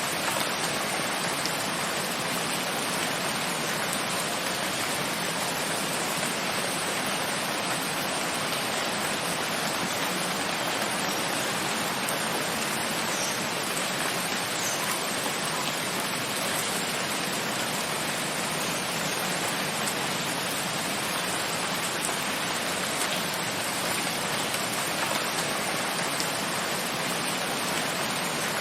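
Steady rain falling: an even, unbroken hiss with a few faint ticks.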